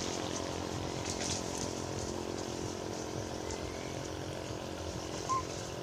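Steady outdoor background noise with faint scattered ticks, and one brief, short chirp a little after five seconds in.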